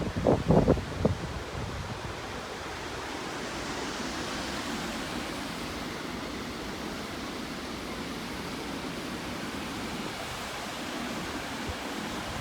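Steady rushing of falling water from the Sablinka River waterfall, with wind buffeting the microphone for about the first second.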